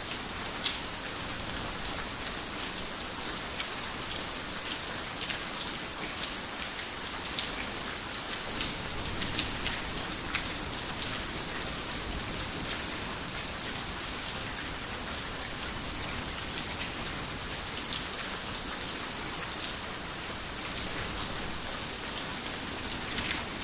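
Heavy rain falling steadily: an even hiss with many separate drops clicking sharply through it.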